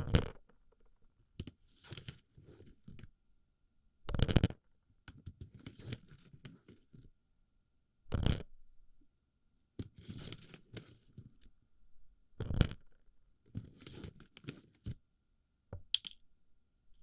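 Plastic BB pellets being packed into and rubbed around a microphone's ear: a loud rustling burst about every four seconds, with quieter clusters of scratchy rustling in between.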